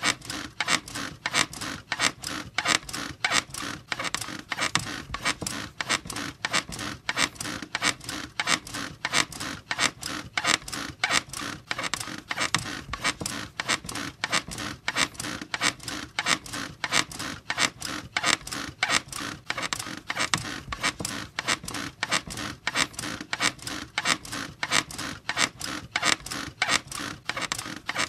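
Bed squeaking in a steady rhythm, the frame or springs giving an evenly repeated squeak about two to three times a second.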